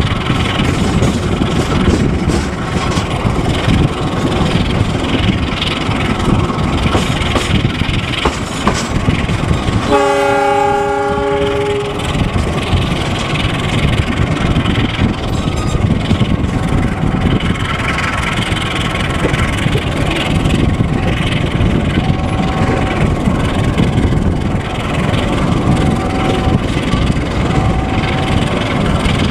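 Passenger train running at speed, heard from inside a coach: a steady rumble and rail noise from the wheels. About ten seconds in, a train horn sounds one blast of about two seconds.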